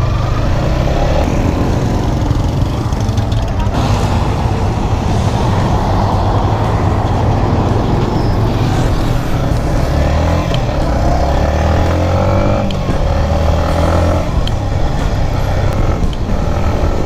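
Yamaha MT-15's 155 cc single-cylinder engine running under way, its note rising as the bike accelerates and then holding steady at cruise, over road and wind noise.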